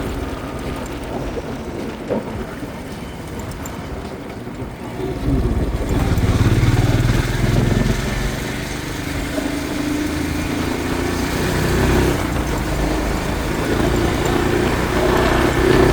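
Royal Enfield Scram 440's single-cylinder engine running while riding on the highway, with road and wind noise. It gets louder about five seconds in and stays louder.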